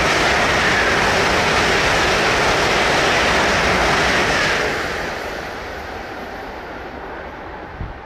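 ICE high-speed train passing at speed, a loud steady rush of wheels on rail and air. It drops away about five seconds in as the last car goes by, then fades.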